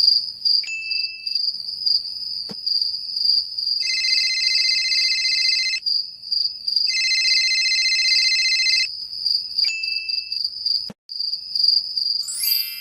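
Crickets chirping in a steady high trill. About 4 and 7 seconds in, a louder buzzing insect call joins for about two seconds each time.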